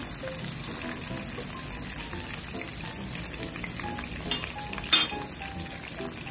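Garlic, onion and salted fish sizzling in olive oil in a nonstick pan, stirred with a spatula, with one sharp knock near the end. Soft background music plays underneath.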